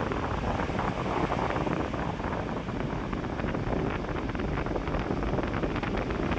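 Electric fan running fast, a steady rush of air buffeting the microphone, with faint rapid ticking.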